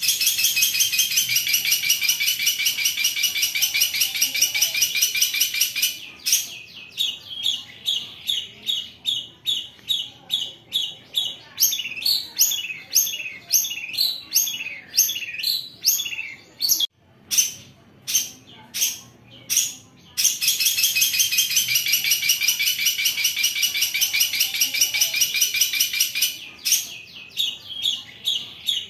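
Long-tailed shrike (cendet) singing a harsh, rough song: a rapid, high-pitched rattling trill held for about six seconds, then a string of separate sharp chirps about two a second, and the rapid trill again about two-thirds of the way through.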